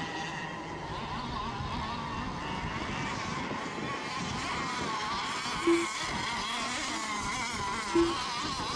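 Radio-controlled model racing boats running on the water, their small engines making a high buzz whose pitch wavers up and down as they throttle and turn. Two short beeps sound about two seconds apart near the end.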